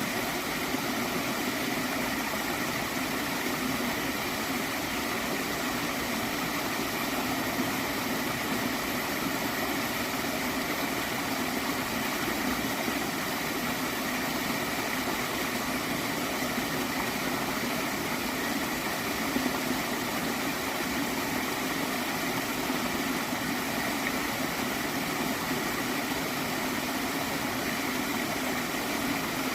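Small stream of water flowing and gurgling, steady and continuous.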